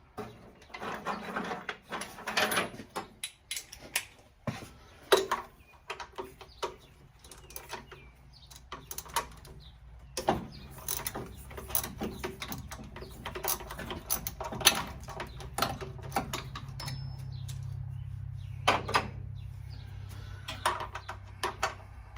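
Irregular clinks and knocks of hand tools and metal engine parts being handled. A low steady hum comes in about halfway through.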